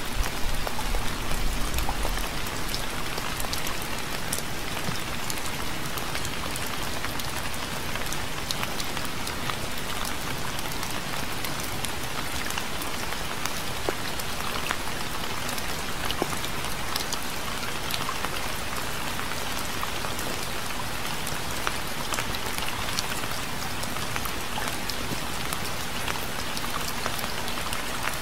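Steady rain falling, a constant even hiss with many separate drops hitting a surface.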